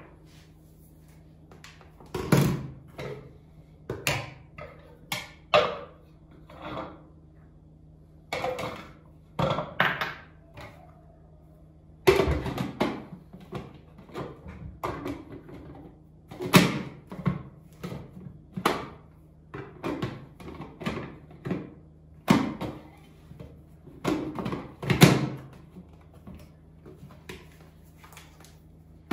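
Household handling sounds: a string of separate knocks, clunks and clatters, like doors and cupboards being opened and shut and things being picked up and set down, over a steady low hum.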